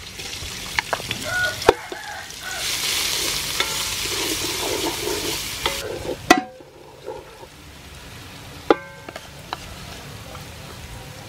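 Pounded spice paste (kroeung) sizzling in hot oil in an aluminium pot as a wooden spatula stirs it, scraping and knocking against the pot. The sizzle is loudest from about two to six seconds in, then dies down, with a short ringing knock near the end.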